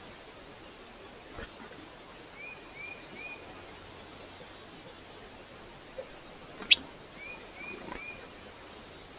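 Small bird calling at a feeder: two runs of three short chirps, with one sharp, loud high call between them, over steady background hiss.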